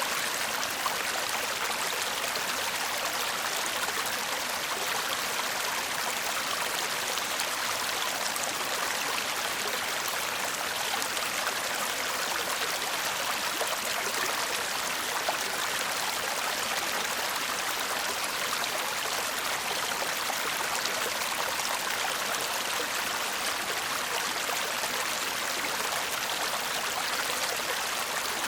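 Shallow stream babbling and murmuring steadily over stones, an even rush of water with no pauses.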